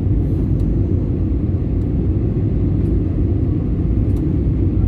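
Steady, loud low rumble of an airliner cabin in flight, the engines' and airflow's drone heard from inside the plane.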